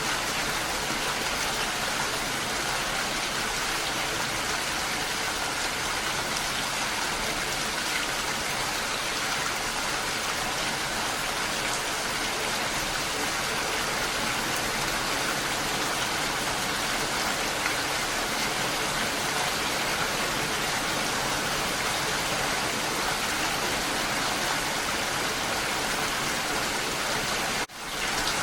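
Steady rain falling, an even hiss of drops. It drops out briefly near the end.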